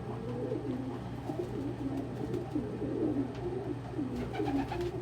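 Several domestic pigeons cooing at once, their low warbling calls overlapping continuously.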